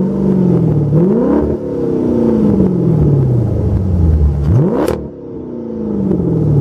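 Dodge Charger SRT8's 6.1-litre Hemi V8 revved through its Corsa exhaust. There are three throttle blips: one just at the start, one about a second and a half in, and a quick sharp one near five seconds. Each is followed by revs falling back slowly.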